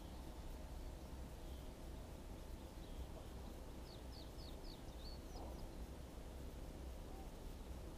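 Quiet outdoor ambience: a low steady rumble, with a quick run of about six high bird chirps about four seconds in.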